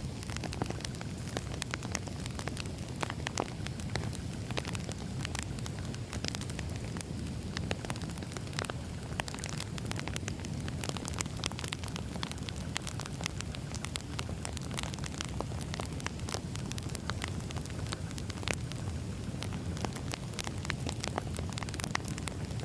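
Campfire crackling: a steady stream of irregular sharp pops and snaps over a low, even rumble of burning.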